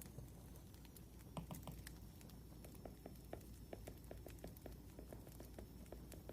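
Quiet crackling of a burning wood fire: irregular small pops and crackles over a low steady background.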